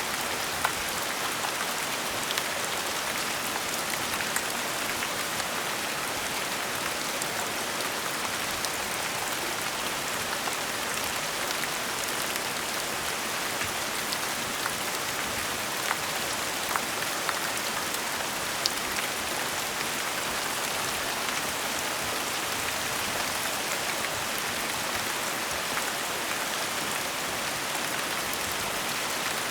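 Steady gentle rain falling, an even hiss with scattered individual drop ticks standing out.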